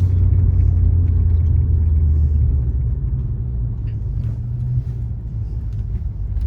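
Alfa Romeo Giulia's 2.0-litre four-cylinder running through a Madness Monza aftermarket exhaust: a deep, throaty drone heard from inside the car while driving. It eases off and drops in pitch about two and a half seconds in, then climbs slightly again.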